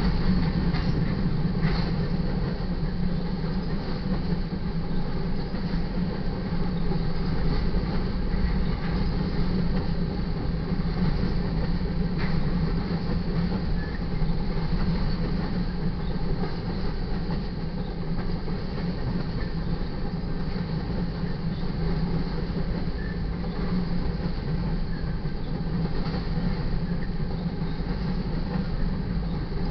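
Loaded covered hopper cars of a freight train rolling past, their steel wheels on the rail making a steady rumble, with a few clicks over rail joints near the start.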